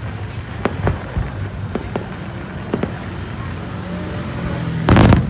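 Distant fireworks going off: scattered single bangs over a steady low rumble, with a louder cluster of bursts near the end.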